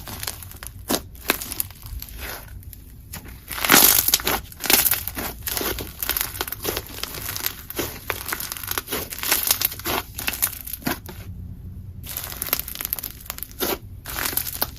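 Slime being squeezed and worked by hand, giving irregular crackling and popping clicks.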